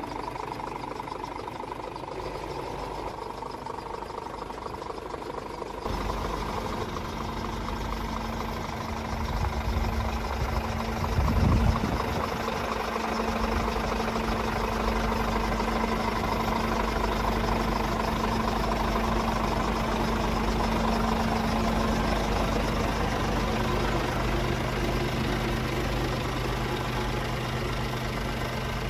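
Scania R450 truck's 13-litre six-cylinder diesel engine comes in suddenly about six seconds in, swells briefly in a short rev near twelve seconds, then idles steadily.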